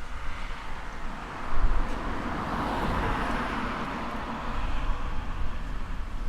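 A car passing by on a village road, its tyre and engine noise swelling to a peak about halfway through and then fading away.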